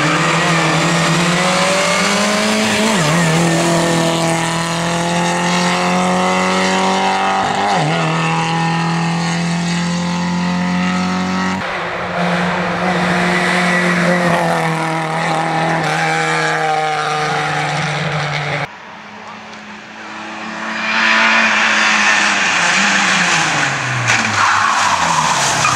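Lada 2107 rally car's four-cylinder engine at full throttle and high revs, with quick gear changes where the pitch dips and climbs again, over tyre and road noise. The sound drops suddenly just before the last third, builds again, and the engine note falls near the end as the car slows.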